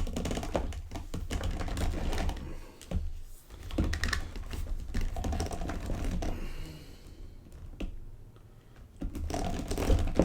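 Hard plastic clicking and knocking as a large 1/5-scale Battle Cat action figure is handled and its joints are moved, over dull bumps from handling. The clicks thin out for a couple of seconds near the end.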